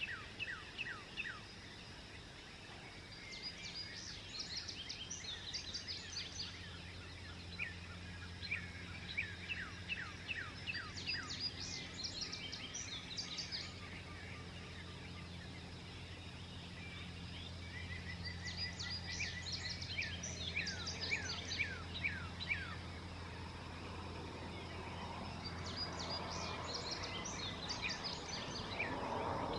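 Songbirds singing a dawn chorus: bursts of quick, falling whistled notes every several seconds, over a steady low hum.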